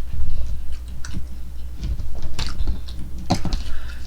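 Close-up chewing of chicken nuggets: irregular wet mouth clicks and soft crunches, over a low steady hum.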